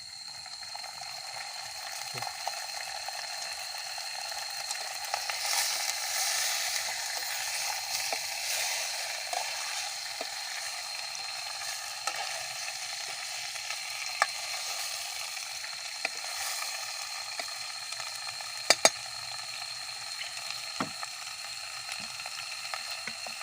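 Fish and spice paste sizzling as they cook over a campfire, with scattered light clicks from stirring and two sharp clicks close together near the end. A thin steady high tone runs underneath.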